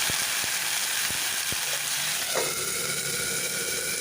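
Ginger-garlic paste and shallots sizzling and spattering in hot mustard oil, with sharp pops over the first second and a half. About two and a half seconds in, a lid goes on the pan and the sizzle changes to a steadier, covered hiss.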